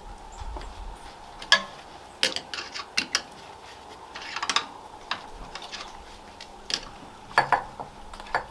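Irregular sharp metallic clinks and clanks of hardware being handled, the loudest about a second and a half in and again near the end.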